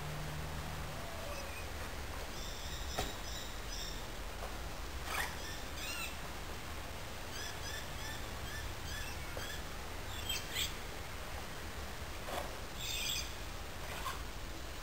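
Birds chirping, with runs of short repeated high notes and a few sharper calls scattered through, over a steady low background rumble.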